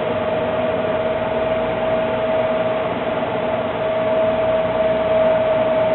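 A steady, even mechanical hum and hiss with one steady mid-pitched tone running through it, like a fan or motor.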